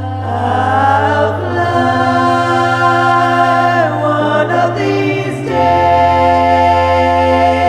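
Music: wordless, choir-like layered vocals holding long notes that change every second or two, over a steady low bass drone that shifts pitch partway through.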